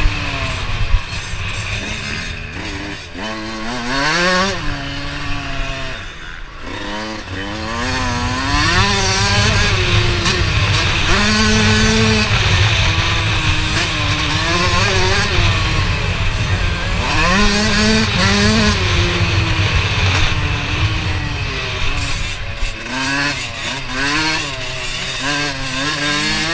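Motocross bike engine revving as it rides, its pitch climbing and dropping again and again every second or two.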